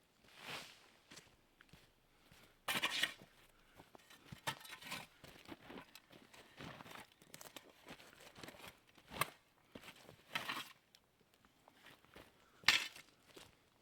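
Irregular rustling and crinkling of camping gear being handled and packed, with scattered footsteps. The loudest rustles come about three seconds in and again near the end.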